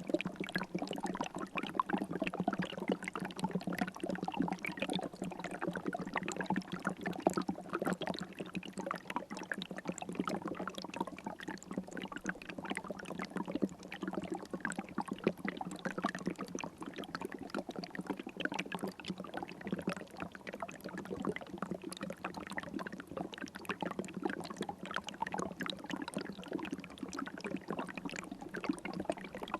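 River water flowing steadily, a dense unbroken patter of small splashes.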